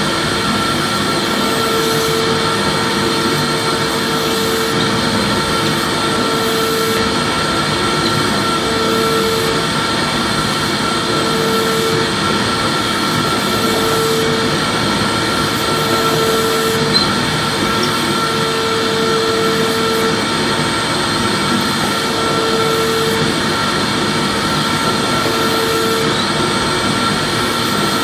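Vacuum cleaner running steadily: a continuous rushing hiss with a constant whine, and a lower hum that comes and goes about every two seconds.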